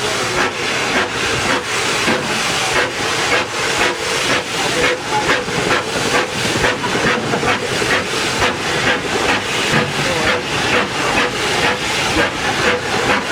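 Schynige Platte Bahn's SLM Class H2/3 0-4-2T rack steam locomotive working hard, its exhaust beating in an even rhythm of about three hissing chuffs a second.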